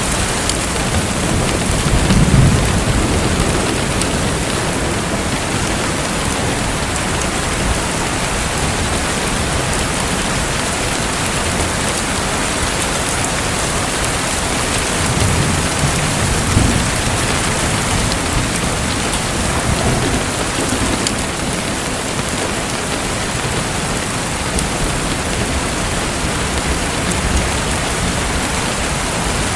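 Steady, rain-like rush of water, with brief low rumbles about two seconds in and again around fifteen to seventeen seconds in.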